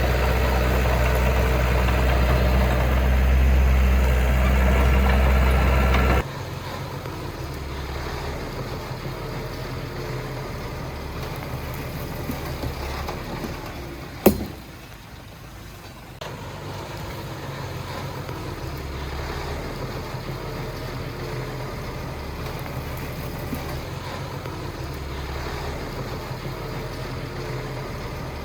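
Diesel engine of heavy earthmoving machinery running steadily, loud for about six seconds, then dropping suddenly to a quieter, throbbing engine sound. A single sharp click comes about fourteen seconds in.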